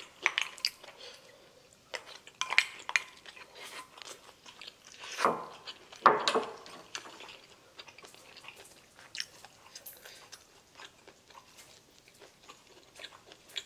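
Close-miked chewing and crunching of food, with a few sharp clicks of metal chopsticks against a glass bowl in the first few seconds. The loudest mouth sounds come about five to six seconds in.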